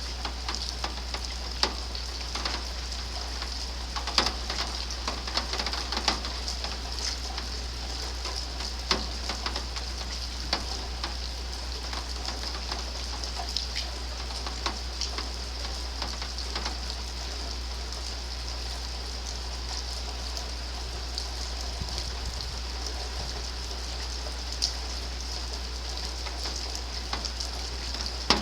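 Rain falling steadily during a thunderstorm, a constant hiss with many separate drops tapping irregularly close by.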